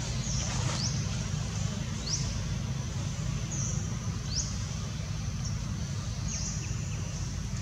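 Steady low rumble with a bird calling over it every second or two, short high flat whistles alternating with quick upward-sweeping notes.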